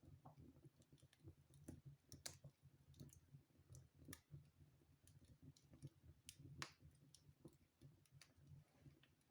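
Faint crackling of a wood fire burning in a fireplace: irregular sharp pops and snaps of the burning logs, a few louder ones about two, four and six and a half seconds in, over a low steady hum.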